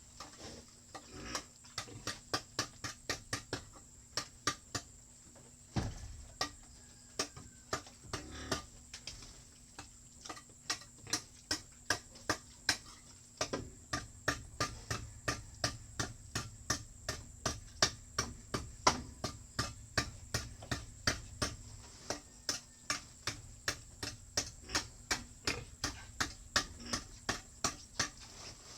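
Hammer striking over and over, roughly two to three blows a second, with a couple of short pauses.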